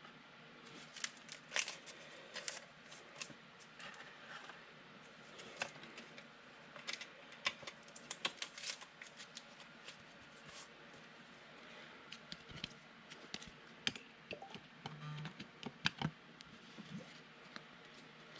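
Trading cards and packs being handled: irregular light clicks, snaps and rustles as cards are flipped through and pack wrappers opened.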